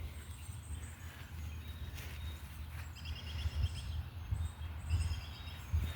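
Faint, high-pitched bird chirps in quick short series, about three seconds in and again near the end, over a steady low outdoor rumble.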